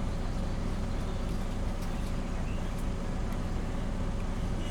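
MAN Lion's City 19C EfficientHybrid articulated bus's diesel engine running with a steady low rumble, heard from inside the bus.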